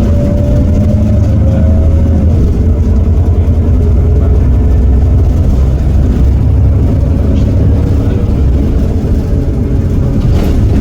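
Iveco Cursor 8 six-cylinder diesel of a Heuliez GX327 city bus running, a steady low drone with a whine above it that drops in pitch about two seconds in. A brief knock near the end.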